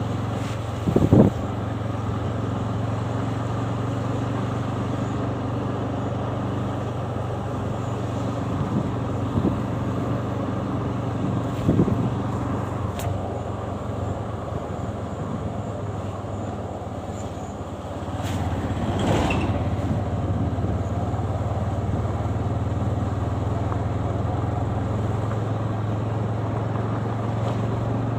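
Motorcycle engine running steadily at a constant speed while riding, with road noise, a few short knocks and a louder swell about two-thirds of the way in.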